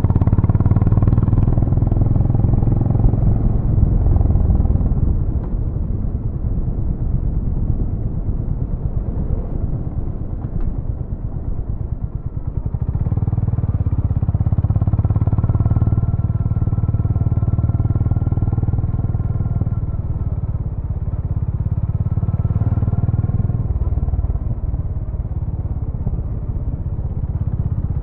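Honda GB350's air-cooled single-cylinder engine and exhaust running steadily with a deep note. It eases off for several seconds, then builds again about halfway through.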